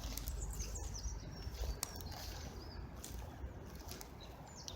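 Outdoor ambience: faint short bird chirps over a low rumble of wind, with a couple of light clicks.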